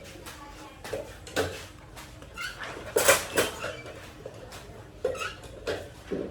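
Irregular clanks and knocks of hard objects, as of tools and metal parts being handled and struck, mostly coming in pairs about half a second apart.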